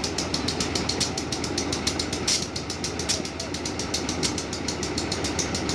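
Engine idling with a rapid, even clatter of about ten beats a second.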